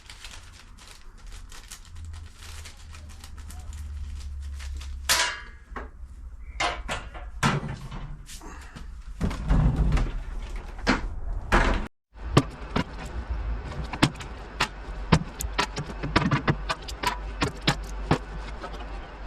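Irregular clicks, knocks and thuds of parts being handled, over a steady low hum, with a brief break about twelve seconds in.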